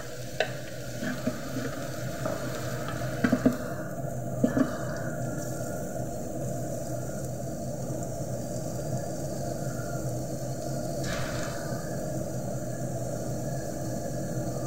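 Julienned carrot strips sizzling as they fry in hot oil in a nonstick pan, a steady hiss. A few sharp knocks come in the first five seconds.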